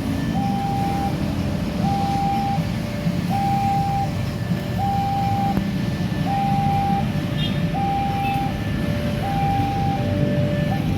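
Electronic two-tone warning alarm of a railway level crossing sounding over and over, a higher tone then a lower one about every second and a half, over the low rumble of passing traffic or a train.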